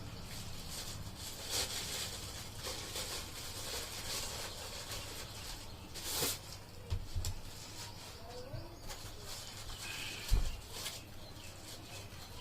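Plastic packaging rustling and crinkling as PVC dumbbell plates and parts are unwrapped and handled, with a few dull thumps as pieces are set down, the loudest a little past ten seconds in.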